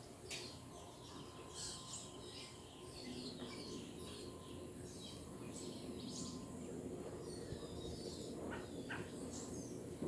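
Wild birds chirping and calling, short scattered calls throughout, with a couple of sharper, louder calls near the end.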